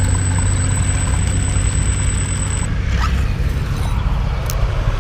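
Rustling and scraping handling noise as the crashed drone's camera is picked up and moved, over a low steady rumble. A thin high whine stops about two and a half seconds in.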